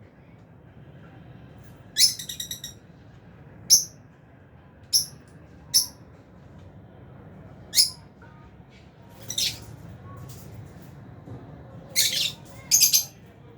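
Aviary lovebirds, Fisher's and albino, giving short, shrill chirps and squawks every second or two, sometimes two or three in quick succession.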